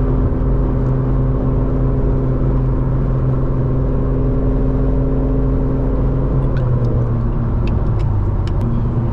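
Car engine and road noise while cruising at a steady speed: a constant engine drone that drops in pitch about seven seconds in, with a few faint ticks near the end.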